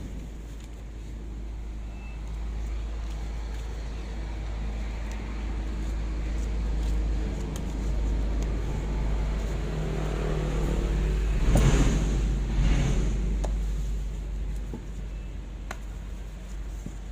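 Low rumble of passing road traffic, swelling to a peak about twelve seconds in and then fading, with two short knocks at the peak.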